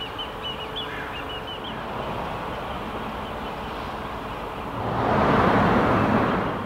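Small bird chirping a quick run of high notes at the start, over steady outdoor background noise. About five seconds in, a rush of noise swells up and fades away within two seconds.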